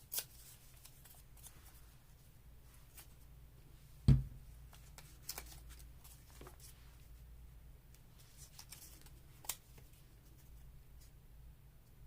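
Paper and craft materials handled on a table: scattered light rustles and clicks, with one solid thump about four seconds in.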